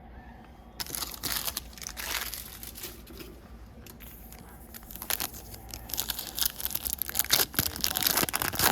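Foil trading-card pack wrapper being torn open and crinkled by hand. The crackling starts about a second in and comes in short bursts, then grows denser and louder over the last few seconds.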